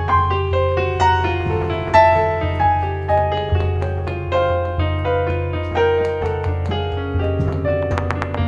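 Electric piano playing a flowing line of single notes over steady low bass notes, in a small-band jazz recording.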